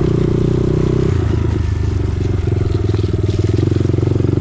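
Dirt bike engine running under the rider, its speed dipping and rising as the throttle is worked on the trail.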